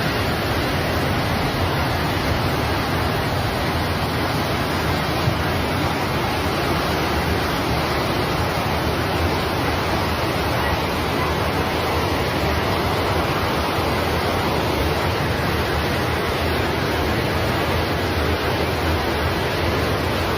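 Steady, even rushing noise with no change in level, with one brief knock about five seconds in.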